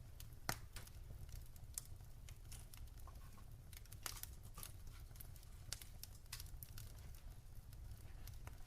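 Wood fire crackling: irregular sharp pops and snaps, the loudest about half a second in, over a steady low rumble.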